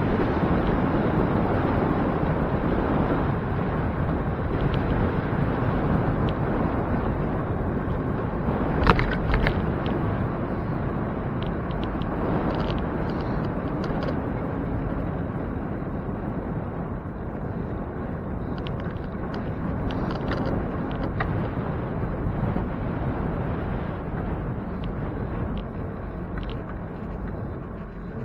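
Steady rush of wind on the microphone and tyre and road noise while riding a bicycle through traffic, with a sharp knock about nine seconds in.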